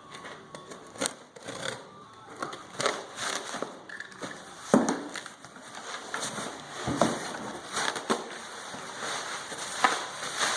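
Cardboard parts box being opened and its packaging handled: irregular crackling and rustling with a few sharp knocks, the loudest about five seconds in.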